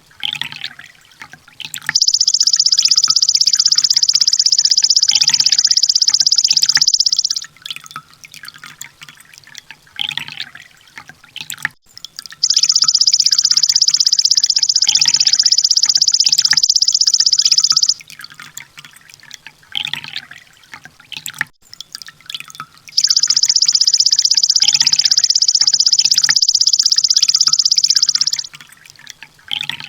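Kolibri Ninja sunbird song: three long, very fast, high-pitched trills, each lasting about five seconds and coming roughly every ten seconds. Short, scattered chirps fill the gaps between them.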